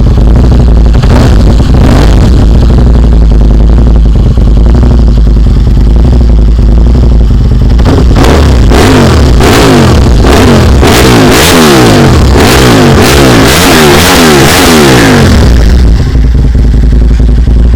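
Aprilia RSV 1000 Factory's 998 cc V-twin running loud through a carbon Mivv exhaust. It idles with a couple of short blips, then about eight seconds in it is revved in a rapid series of throttle blips, rising and falling, before settling back to idle near the end.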